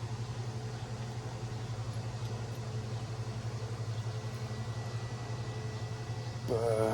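Steady low hum of a motor or fan running in the background, with a brief voice sound near the end.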